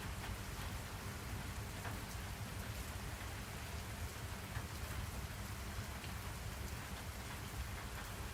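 Steady rain falling on a surface, a constant hiss with many small drop ticks over a low rumble.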